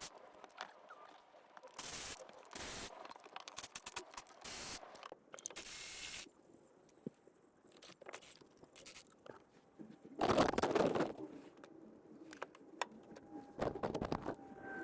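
Irregular scraping and clattering of tools and parts being handled under a car during a transmission pan and filter removal, with a louder rustling burst about ten seconds in.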